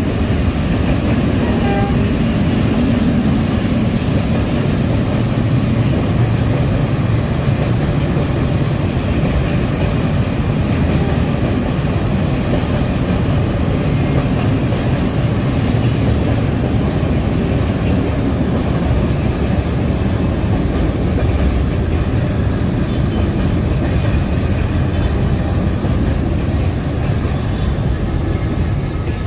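Freight train's wagons rolling past, a loud, steady rumble of wheels on the rails.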